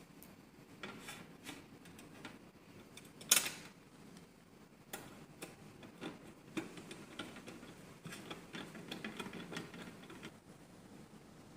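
Irregular small clicks and taps of hard parts being handled, with one sharper click about three seconds in and clusters of quicker ticks later on.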